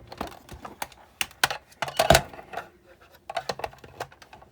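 Irregular clicks and light knocks of parts being handled while a Sizzix Big Shot die-cutting machine is taken apart, with the loudest cluster about halfway through.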